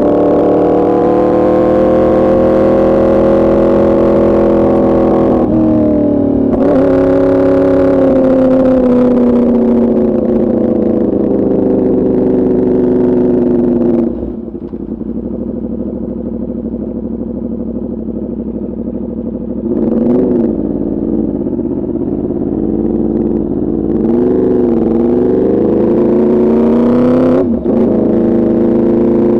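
A 2024 Yamaha R1's crossplane inline-four running through an Arrow Pro Racing exhaust on the ride. Its pitch sinks slowly with a short break about six seconds in, then it drops quieter about halfway through, rises and falls in pitch twice, and comes back to full loudness near the end.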